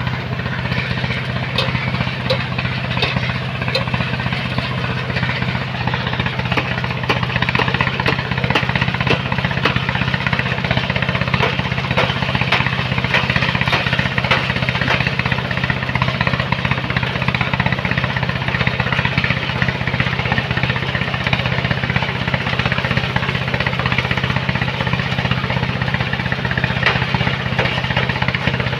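Heavy machinery engine running steadily at a constant pitch, with a continuous rushing noise and scattered clicks over it.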